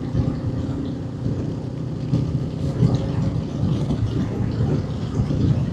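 Honda 500 parallel-twin motorcycle engine running at a steady cruising speed, heard from the bike with wind and road noise.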